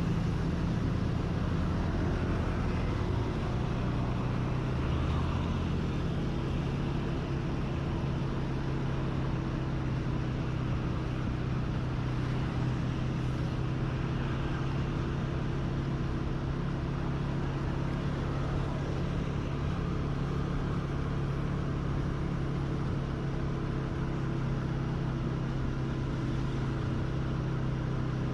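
Motorcycle engine running steadily while riding, its pitch stepping up about four seconds in, over a constant rush of wind and road noise.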